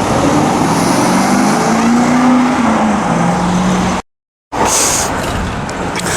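Sports car engine running, its pitch rising and then falling, broken by a half-second of total silence about four seconds in, then running steadily again with a few sharp clicks.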